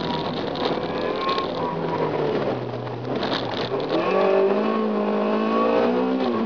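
Honda Civic EJ9's B16A1 1.6-litre VTEC four-cylinder, running through a 2-inch straight-through exhaust, heard from inside the cabin while driven hard. The revs fall steadily for about three and a half seconds, then climb sharply and hold high.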